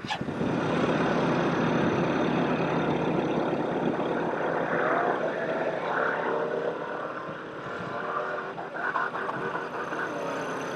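A heavy off-road vehicle driving hard: its engine runs under load with a dense rush of noise that starts abruptly, and steadier engine tones come through in the second half.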